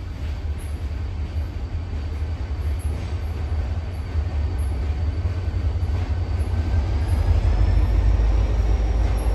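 Conway Scenic Railroad passenger train running past on the line, a steady low rumble that grows louder over the last couple of seconds.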